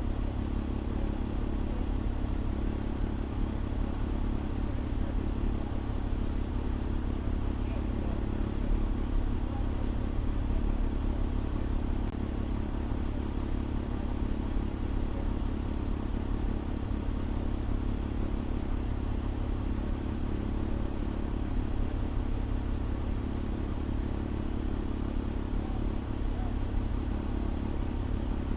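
Fire engine's diesel engine running steadily, a constant low rumble as heard from the dashcam in the cab, with a faint steady high-pitched whine over it.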